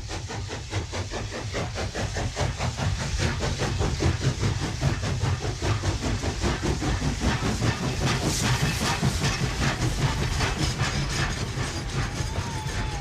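Ride-on scale model train running on its track, a fast even beat of several strokes a second with hiss over a low rumble.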